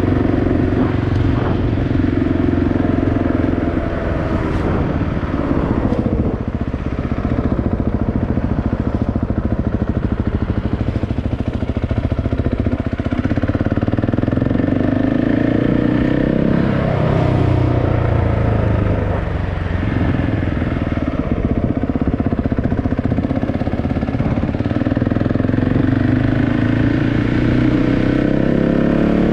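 KTM 690 Enduro's single-cylinder four-stroke engine running under way. Its pitch drops as the bike slows about five seconds in, dips and climbs again midway, and rises as it accelerates near the end.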